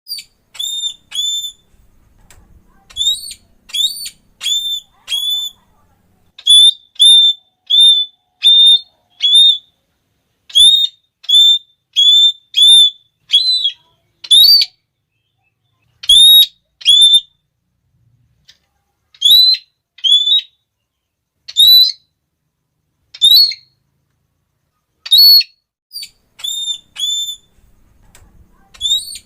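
Red-cheeked parrot (Geoffroyus geoffroyi) giving its shrill, repeated 'klee' call: short, loud, slightly rising notes in quick runs of two to five, with brief pauses between runs.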